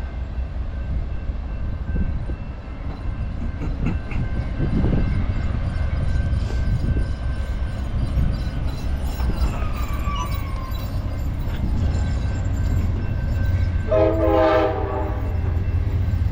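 Amtrak California Zephyr passenger train rolling in: a steady low rumble of the locomotive and wheels on the rails, with a faint squeal sliding down in pitch near the middle. About fourteen seconds in, the locomotive's horn gives a short blast.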